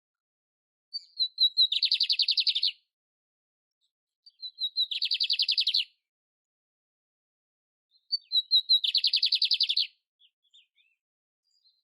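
Canário império (canary) singing three matching phrases a few seconds apart, each a few short high notes running into a fast trill about a second long.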